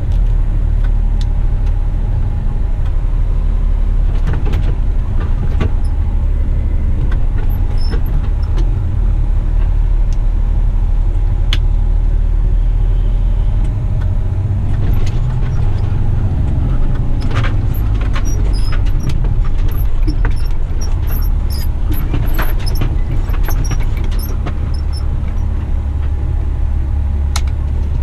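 Heavy Western Star dump truck's diesel engine running under way, a deep steady drone heard from inside the cab. Scattered rattles and clicks join in about halfway through.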